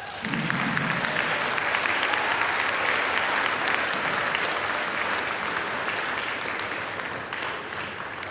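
A crowd of high school students applauding, dense clapping that starts at once, holds strong and slowly thins out near the end.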